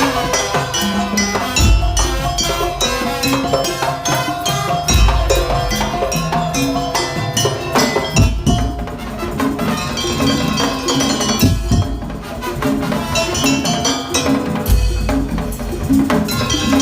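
Madurese daul (tong-tong) percussion ensemble playing: a fast rhythm of wooden slit drums and drums under pitched metallophone tones, with a deep drum boom every few seconds.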